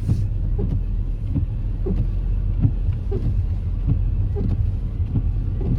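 Car running with a steady low rumble, with short faint squeaks recurring irregularly through it.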